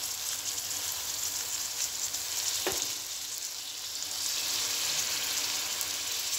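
Okra masala sizzling steadily in an aluminium wok on the stove: an even frying hiss that grows a little louder about four seconds in as lemon juice is squeezed into the hot pan.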